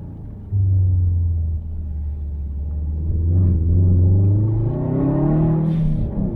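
Turbocharged 2.5-litre EJ257 boxer four of a Subaru WRX STi, run with a muffler-deleted exhaust. The throttle comes on about half a second in, and the engine then pulls with its pitch rising steadily. Near the end the note dips briefly, as at a gear change.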